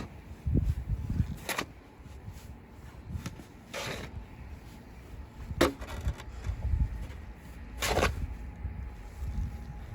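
Snow shovel scraping along the ground in short strokes, four scrapes roughly two seconds apart, with low thumps in between.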